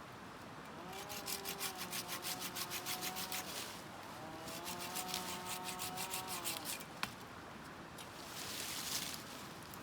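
A hand tool worked fast back and forth on wood, in two runs of about three seconds each at roughly seven strokes a second, then a single knock and a shorter scrape near the end.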